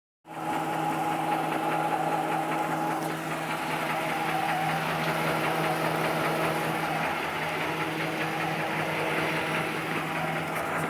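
Ford 302 small-block V8 running at a steady speed with a knock in it, the owner unsure what part is knocking.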